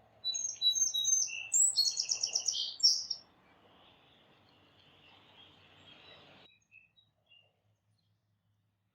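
A small songbird sings one short song of about three seconds: a few clear, high introductory notes, then a fast, buzzy trill. Faint outdoor background noise follows and cuts off abruptly.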